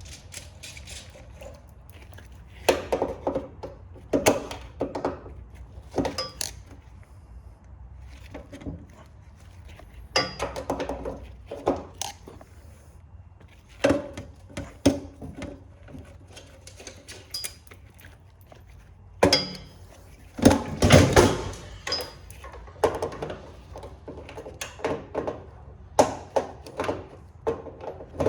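Irregular metallic clanks, knocks and rattles of hand tools and metal parts as a t-shirt printer is taken apart for scrap, a nut being worked loose under an aluminum part; some knocks ring briefly, with the busiest clatter about twenty seconds in.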